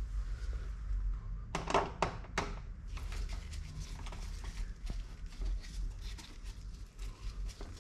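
A run of small clicks and knocks from hand work on parts, with a louder cluster of knocks about two seconds in, over a low steady hum.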